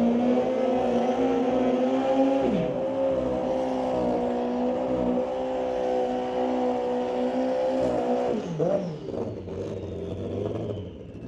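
Drag-racing motorcycle engines held at high, steady revs for about eight seconds during burnouts. The note then drops off sharply, with one quick rev blip, leaving a low idling rumble.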